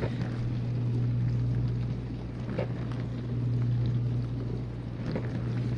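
Whirlpool dishwasher running its main wash: a steady motor hum from the wash pump under water spraying inside the tub, the level gently swelling and fading.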